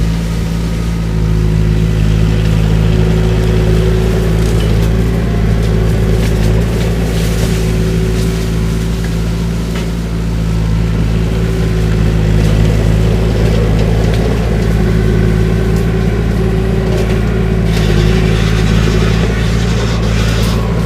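Skid steer engine running steadily at high throttle, driving a shredder head through cane, with a few short sharp cracks scattered through it.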